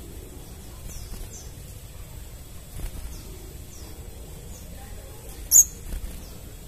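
Crimson sunbird calling: short, thin, high chirps that each fall in pitch, spaced a second or so apart. One much louder, sharper chirp comes about five and a half seconds in.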